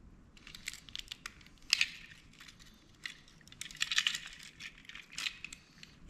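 Small plastic and metal parts of a dome security camera clicking, rattling and scraping as they are worked loose by hand during disassembly. The sharpest click comes a little under two seconds in, with a busier run of clicks and scrapes around four seconds in.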